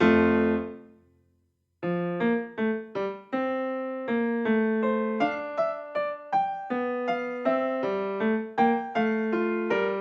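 Background piano music: a chord rings out and fades away, and after a brief silence a gentle run of piano notes and chords starts up again.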